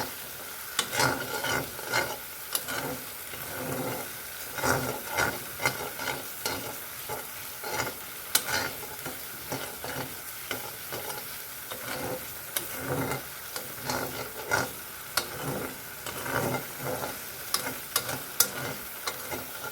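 Food frying in hot oil in a pan, sizzling steadily, while a spatula stirs it, scraping and knocking against the pan several times a second.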